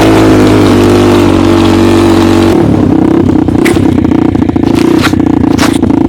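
Homemade snowmobile's engine running at a steady high speed under a broad rushing noise. About two and a half seconds in the rushing drops away, leaving the engine note, and three sharp knocks come through it.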